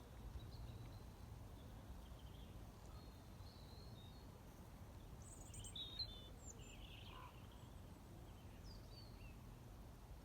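Faint, scattered chirps of small birds over a steady low outdoor rumble, with one sharper chirp about six seconds in standing out as the loudest.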